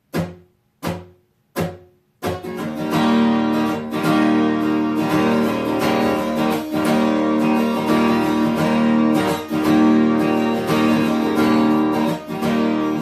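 Three short taps about three-quarters of a second apart, then acoustic guitar strumming starts a little over two seconds in and carries on steadily as the instrumental intro of the song.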